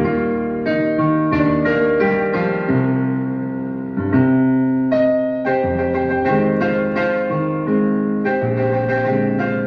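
Solo piano music: chords and melody notes struck about every half second over low bass notes, each ringing on and fading.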